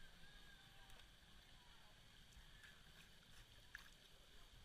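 Near silence: a faint, muffled background with a few faint ticks.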